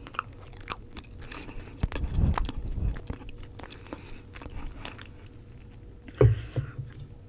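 Close-miked chewing and wet mouth clicks from eating roti, with a couple of dull low thumps about two seconds in and again near the end.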